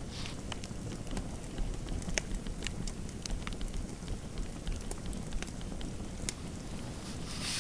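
Fireplace crackling: scattered sharp pops and snaps over a steady low rumble of the fire, with a short soft hiss near the end.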